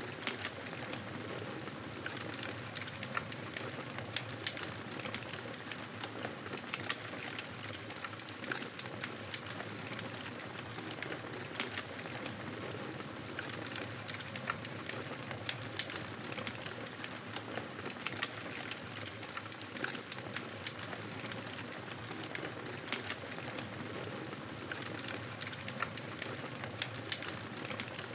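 Fireplace wood fire crackling steadily, with frequent small irregular pops and snaps over a soft hiss.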